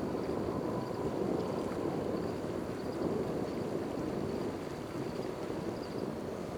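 Jet airliner engine noise: a steady rumble that slowly fades.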